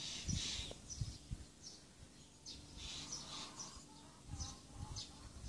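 Small birds chirping repeatedly in short high chirps, with a few pitched calls near the middle. Low dull thumps sound now and then underneath.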